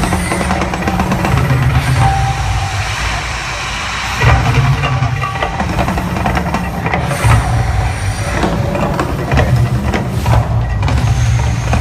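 Mirage volcano show: a loud, deep rumble over its music, dipping briefly and surging back about four seconds in.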